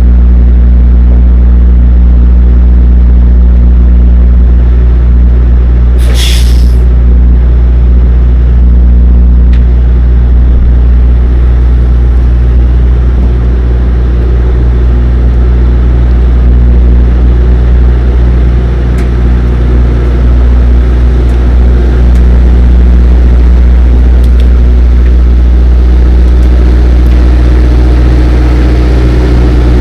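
Semi-truck diesel engine running at low speed during a slow backing manoeuvre, with a short air hiss about six seconds in.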